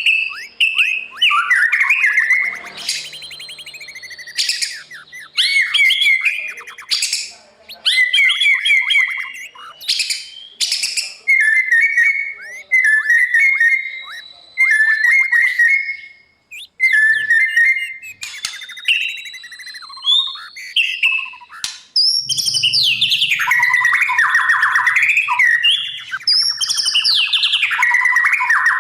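White-rumped shama singing loudly: varied phrases of clear whistles, rapid trills and rising sweeps, separated by short pauses. The song becomes one dense unbroken stretch for the last several seconds.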